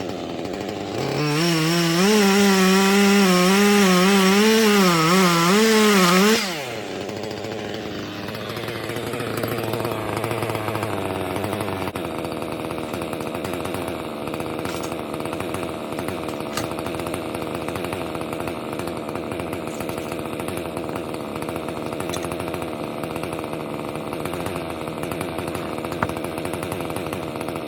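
Husqvarna 3120XP two-stroke chainsaw cutting oak on a chainsaw mill. About a second in it comes up to full throttle and holds for about five seconds, its pitch wavering under load. It then drops back and runs more quietly, steady, for the rest.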